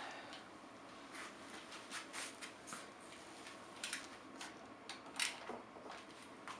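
Scattered light clicks and taps of hand tools being handled and fitted on the motorcycle, with a few sharper knocks in the second half.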